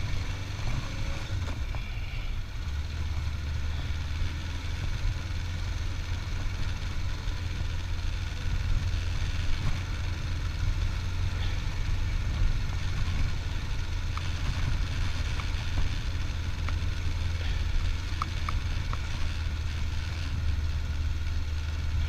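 A 25-year-old motorcycle's engine idling steadily while it warms up.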